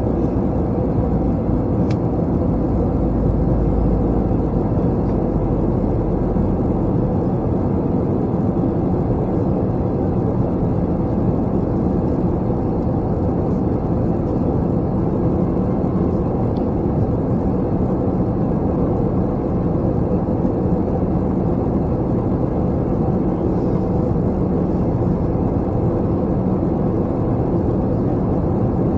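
Steady engine and airflow noise inside the cabin of an Airbus A321 airliner in flight, a constant drone with a low hum. The deep rumble is a little stronger in the first few seconds.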